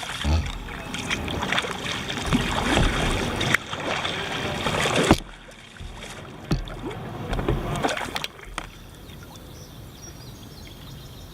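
Kayak paddle strokes dipping and splashing in river water, uneven and with a few sharp knocks, for about eight and a half seconds, then a quieter steady hiss.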